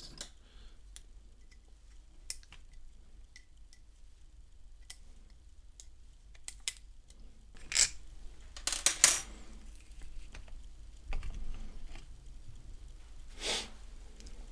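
Small metal parts and tools clinking and tapping as a pressure washer pump is taken apart. Scattered light clicks, with a few louder knocks and clatters about 8 and 9 seconds in and again near the end.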